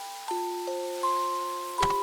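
Gentle music box melody: single high notes struck one after another, each ringing and slowly fading. A single short knock comes near the end.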